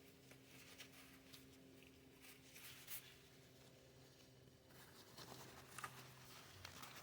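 Near silence: a faint steady hum, with a few light scratches and ticks scattered through.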